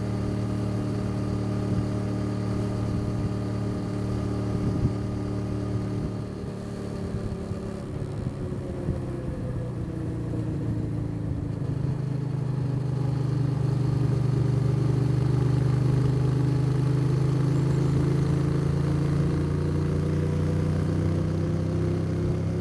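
Motorcycle engine under way, running steadily, then easing off with the pitch dropping about a third of the way in, before gradually building revs again and getting louder.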